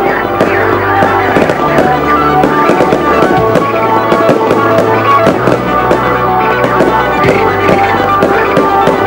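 Fireworks going off: many sharp pops and crackles in quick succession, over loud music.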